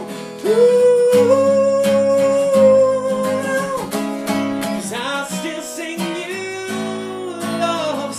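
Acoustic guitar strummed under a sung "ooh" that scoops up into a long held note lasting about three seconds, followed by more sustained sung notes.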